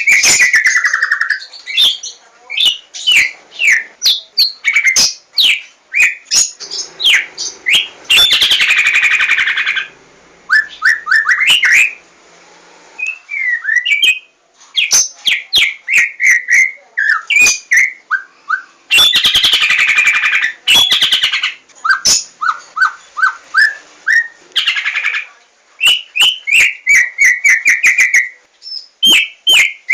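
White-rumped shama (Javan murai batu) singing a loud, varied song of sharp whistled notes and quick runs of short notes. It breaks twice into dense, buzzy chatter, and there are brief pauses near the middle.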